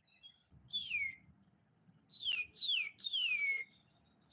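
A songbird singing clear whistled notes, each sliding down in pitch: one note about a second in, then a run of three near the end, the last one longer.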